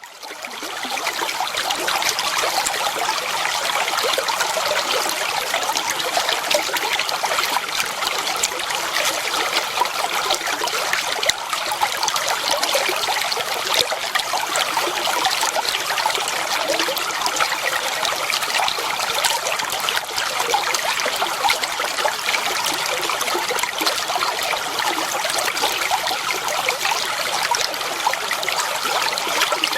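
Flowing water trickling and splashing steadily, a dense, even babble with no let-up. It fades in over the first second.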